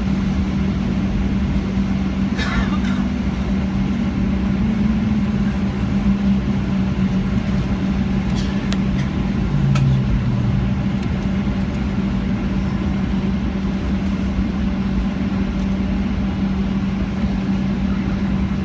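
Airliner cabin noise just after landing: the steady hum of the jet engines and airflow, with a constant low drone.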